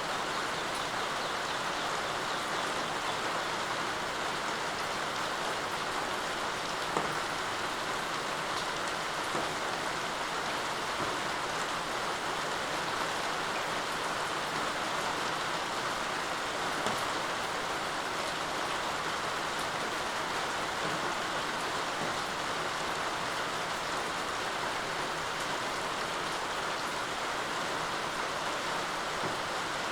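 Steady rain falling, an even hiss of drops on surfaces, with an occasional louder drop tick.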